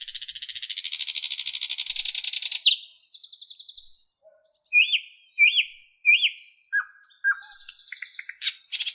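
A small bird singing a varied song: a long buzzy, rattling trill for the first few seconds, then a string of short chirps, three quick rising-and-falling whistled notes about five to six seconds in, and another fast trill near the end.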